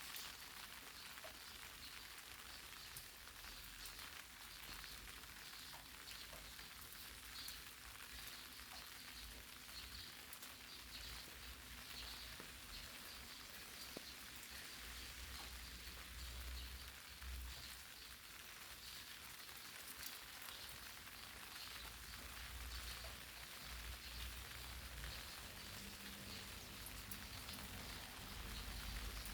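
Light rain falling on eggplant leaves: a steady soft hiss of drops with scattered faint ticks, and a low rumble now and then.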